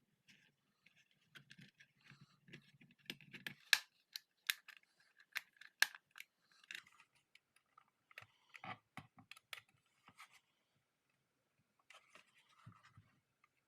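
Plastic parts of a handlebar phone holder being handled: scattered clicks, taps and rattles, with a few sharper snaps about four to six seconds in.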